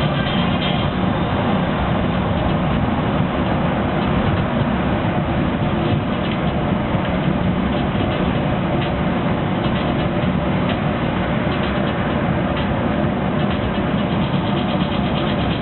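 Scania 340 coach's engine running steadily under way, with tyre and road noise, heard from inside the bus.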